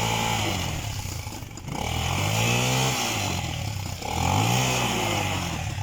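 Small off-road vehicle engines revving in mud: the engine note swells up and falls back three times, each swell lasting about a second.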